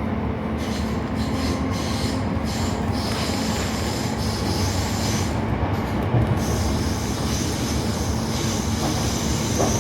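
Class 455 electric train running, heard from on board: a steady rumble of wheels on rail with a low hum. High-pitched wheel squeal comes in about three seconds in and grows steadier in the second half.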